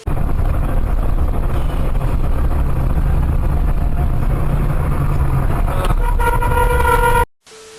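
Loud, steady low rumble of a road vehicle on the move. A vehicle horn sounds for about a second near the end, then the sound cuts off suddenly.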